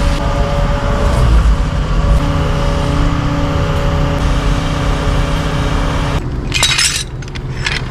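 Doosan excavator's diesel engine running with a steady hydraulic whine. About six seconds in the engine note drops, and two bursts of hissing follow.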